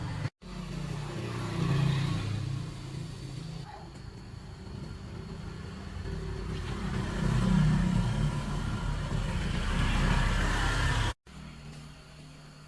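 A motor vehicle engine running, swelling in loudness twice and cut off suddenly near the end.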